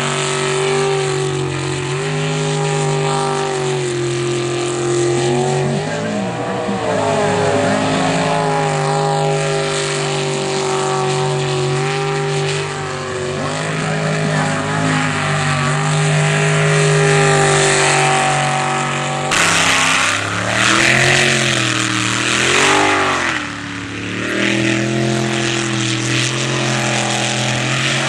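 Sprint jet boat engine running hard at a high, steady pitch, dipping and swinging back up now and then as the throttle is worked. About 19 seconds in, a loud rushing hiss joins the engine.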